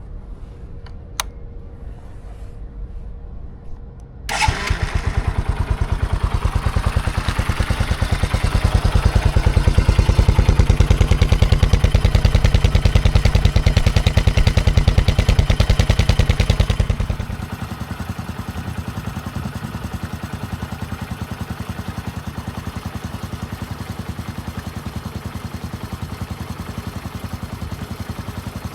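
Bajaj Boxer 150 motorcycle's single-cylinder four-stroke engine starting up about four seconds in, held at raised revs for over ten seconds, then dropping to a steady idle.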